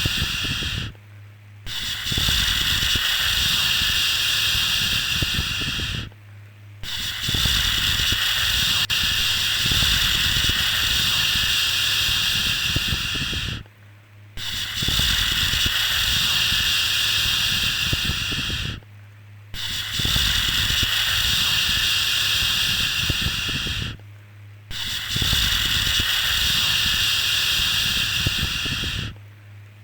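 A drawn-out shushing 'shhh', held for several seconds at a time and broken by five short pauses at uneven intervals. It is the soothing shush used to settle a baby to sleep.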